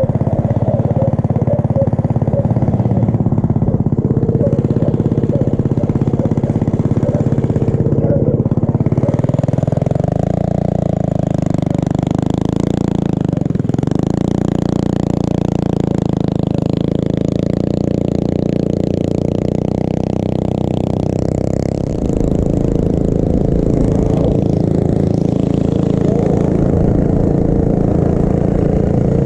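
Small mini bike engine running steadily under way, its pitch shifting about a third of the way in and again near three quarters of the way.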